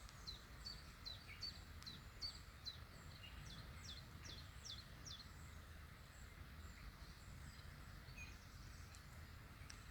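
A small songbird calling repeatedly: short, high chirps that each slide downward, about two or three a second for the first five seconds, then only a few scattered notes. Faint low background rumble throughout.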